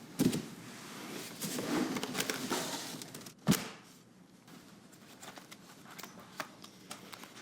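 Papers rustling and being handled, with a knock near the start and a sharp knock about three and a half seconds in, then a few light clicks.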